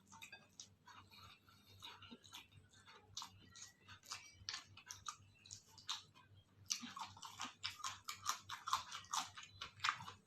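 Close-up mouth sounds of someone chewing crunchy food: rapid, irregular crackling and crunching that grows denser and louder about two-thirds of the way through.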